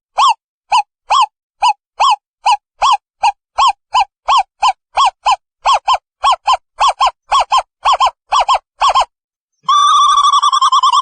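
Owl calling: a long series of short, clear hooting notes, about three a second and slowly speeding up, broken off near the end by a longer wavering trill.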